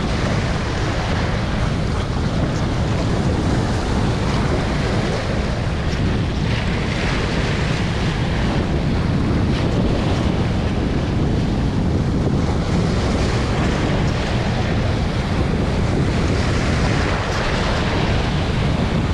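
Strong wind blowing across the microphone over the wash of sea waves on the shore: a steady rushing noise, heaviest in the low end.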